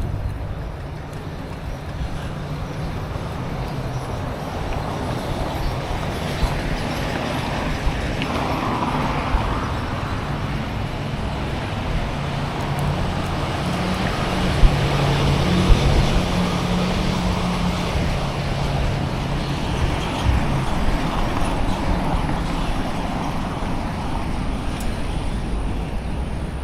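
Steady road traffic noise heard from a moving bicycle, swelling a little towards the middle as vehicles pass, with a few sharp clicks.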